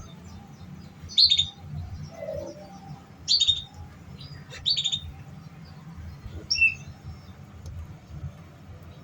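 Domestic canary giving short, separate chirps, four of them spaced a second or more apart, over a faint low steady hum.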